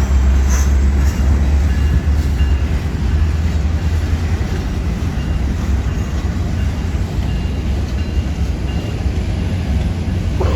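Union Pacific empty rock train pulling out: a deep steady diesel locomotive drone over the rumble of rolling freight cars, easing slightly toward the end.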